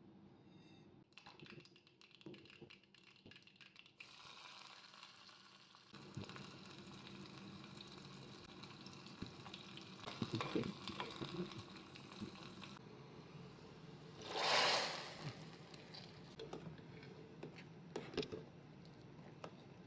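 Faint kitchen cooking sounds: food sizzling in a pan, with scattered clinks and taps of utensils and a louder burst of hiss lasting about a second partway through.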